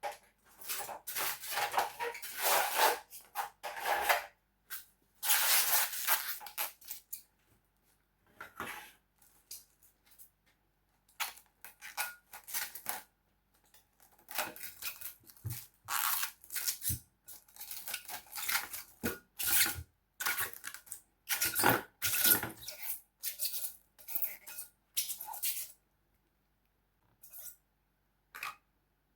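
Kitchen handling sounds: irregular clatter, knocks and scraping of utensils and containers in short bursts with pauses, falling quiet near the end apart from two brief clicks.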